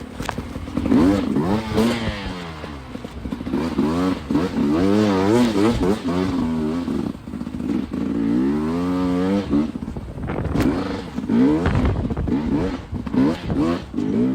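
Enduro dirt bike engine being ridden hard, the revs rising and falling quickly over and over as the throttle is worked, with a few sharp knocks and clatters in between.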